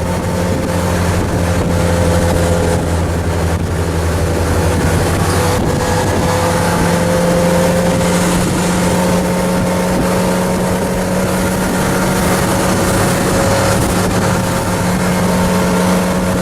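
MerCruiser 302 V8 sterndrive engine running steadily as the boat cruises under way, with a constant rush of wind and water behind it.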